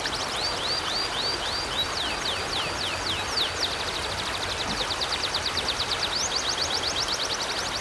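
River water flowing steadily, with a bird singing over it in quick series of high, down-slurred notes, some slower, some run together into fast trills.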